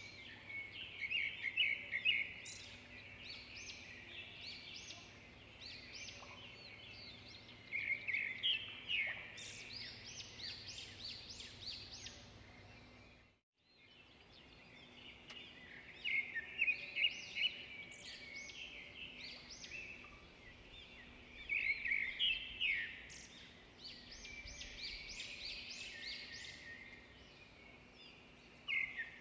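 Small birds chirping and twittering in quick, overlapping bursts of high trills. The sound fades out to silence for a moment about halfway through, then comes back.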